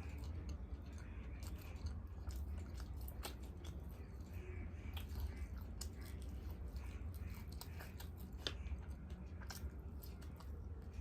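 A person eating close to the microphone: wet chewing and many short mouth clicks, over a steady low hum.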